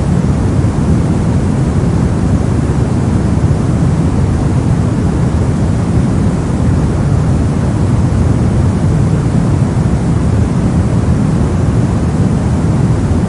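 Steady soft noise for sleep and focus: an even, unchanging rush that is deep and weighted toward the low end, with little hiss up top.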